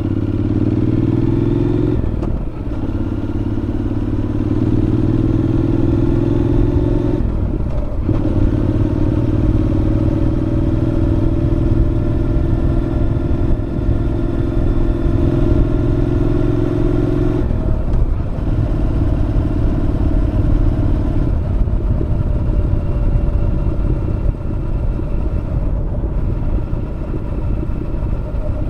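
Honda NC750X's parallel-twin engine with a Moriwaki aftermarket muffler, running under way: the exhaust note climbs in pitch as it pulls, with short dips where the rider changes gear about 2, 7 and 17 seconds in, heard close to the rider's helmet.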